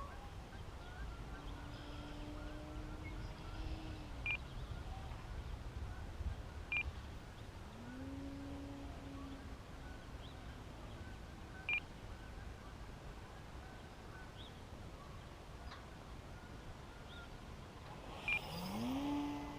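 Faint electric motor of a radio-controlled E-flite Slow Ultra Stick in flight, its pitch gliding up and holding level a few times as the throttle changes, over a steady rumble of wind on the microphone. Four short high electronic beeps sound at uneven intervals.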